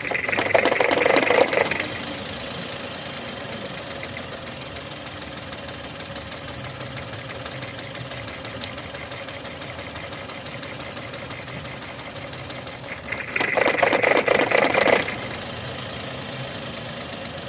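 Suzuki Cultus three-cylinder engine idling roughly and shaking with a misfire. Injector number 2 cuts in and out intermittently. Two louder, clattery stretches, each about a second and a half, come right at the start and again at about 13 seconds.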